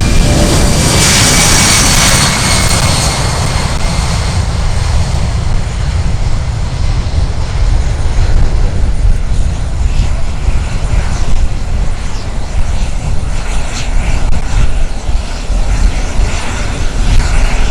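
Boeing C-17 Globemaster III's four turbofan engines, loud. A high whine falls in pitch in the first few seconds as the jet passes, then a steady low rumble goes on.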